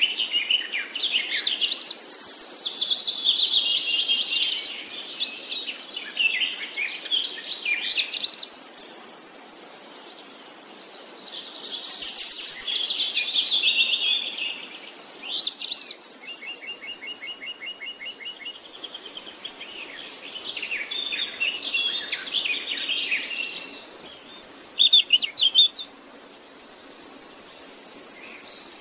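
Wild songbirds singing: a continuous run of varied chirps, warbling phrases and fast rising and falling whistles, with a rapid trill about two-thirds of the way through. High, steady buzzing notes come and go in the background.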